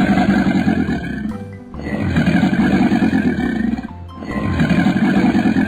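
Crocodile growl sound effect: three long, rough growls, each lasting well over a second with short breaks between, over children's background music.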